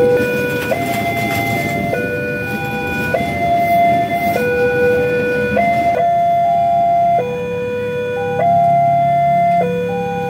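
Electronic two-tone warning signal alternating between a low and a higher note about every second, over the low rumble of a train engine.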